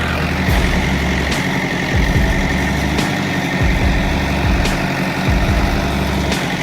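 Heavy machine's diesel engine running steadily, with low pulses that swell and fade about every second and a half.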